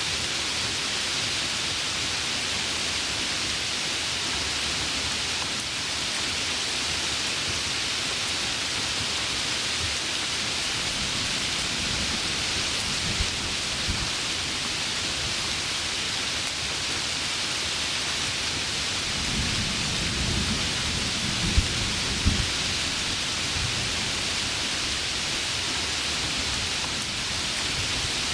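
Heavy rain falling steadily, with thunder rumbling low twice: briefly about halfway through, then more strongly with a few sharp cracks about three quarters of the way in.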